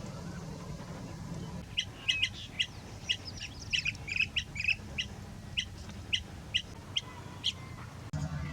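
Blue-tailed bee-eaters calling: a string of short, sharp chirps, about three a second, lasting several seconds. A steady low rumble is heard at the start and returns near the end.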